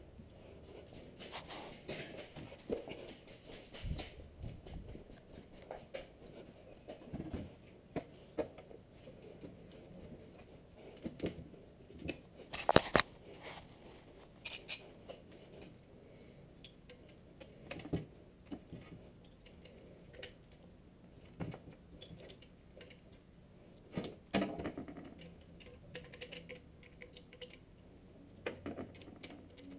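Irregular light clicks and knocks, like tools or parts being handled, with one louder knock about halfway through; no engine is running.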